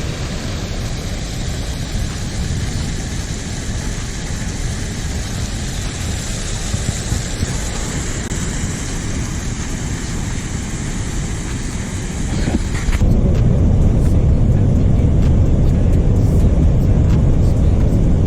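Steady vehicle road noise, an even rush of tyres and traffic, which changes suddenly about 13 seconds in to a louder, deeper rumble with the hiss gone, as from inside a moving truck.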